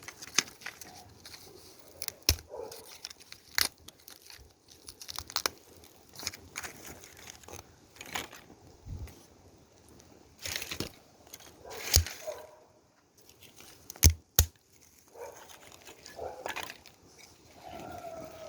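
Irregular snaps, cracks and crinkling from kindling and firewood being handled for a wood fire, with two loud sharp cracks in the middle stretch and a few short whine-like calls near the end.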